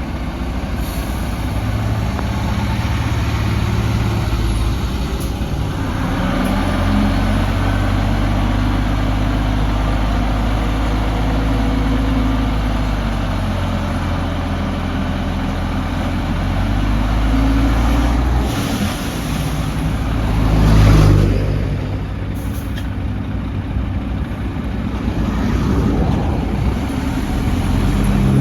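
Heavy diesel earthmoving machinery, dump trucks and an excavator, running and working. The engine note rises and falls, with a louder surge about three quarters of the way through and a few brief hisses around it.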